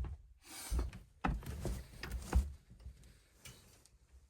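Rummaging while searching for something: a few knocks and thuds of objects being moved about, with a brief rustle, dying away near the end.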